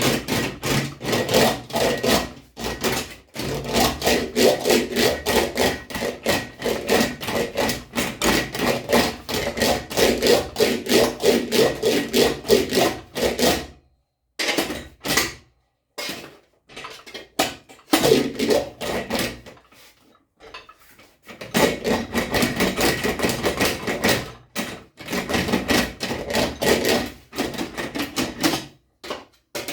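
Aluminium motorcycle fender being shaped by hand: rapid, rhythmic metal-working strokes on the sheet, with brief pauses about a third and two-thirds of the way through.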